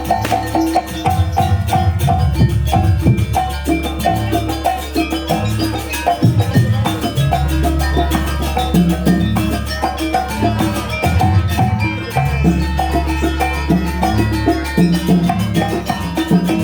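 Banyuwangi jaranan gamelan music: drums and struck metal instruments in a fast, even rhythm, with rapid repeated pitched notes over a continuous low bass.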